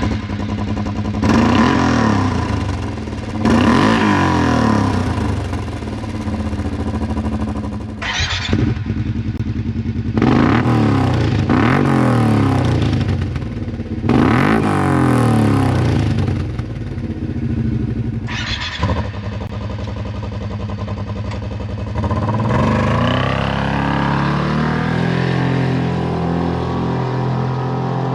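Kawasaki Teryx side-by-side engine through an HMF Titan aftermarket exhaust, revved several times, the pitch climbing and dropping back with a few short blips between. Later it pulls up in one long steady rise in pitch, as under acceleration.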